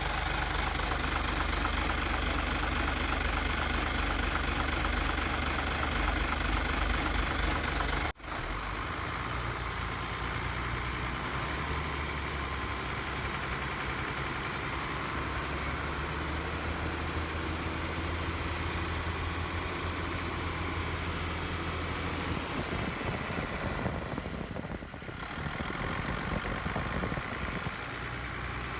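Truck engine idling steadily while its air-conditioning system is being charged with refrigerant. The sound cuts out sharply for an instant about eight seconds in.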